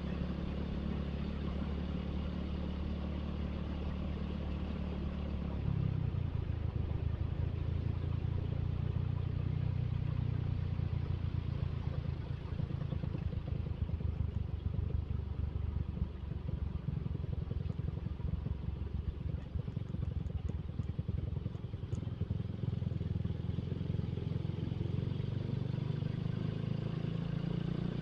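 Suzuki Satria FU motorcycle's single-cylinder four-stroke engine running under way, with wind and road noise. About six seconds in, its note drops and gets louder, and it climbs again near the end.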